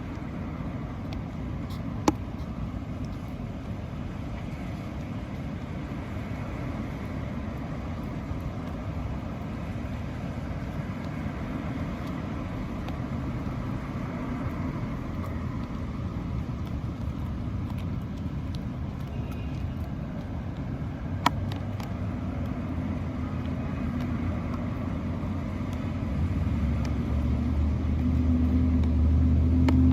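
Steady low rumble of a motor vehicle, with a single engine hum growing louder over the last several seconds as it draws closer. A few sharp clicks.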